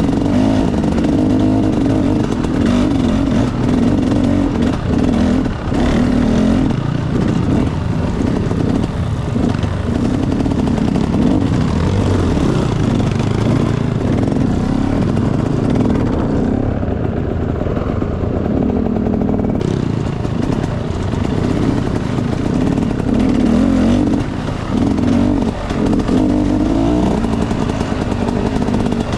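Enduro dirt bike engine running under changing throttle as it is ridden off-road, with loose clatter over the engine note.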